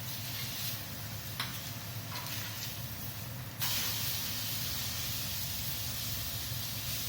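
Food sizzling on a hot barbecue grill, a steady hiss with a few light clicks, which jumps abruptly louder and brighter about three and a half seconds in.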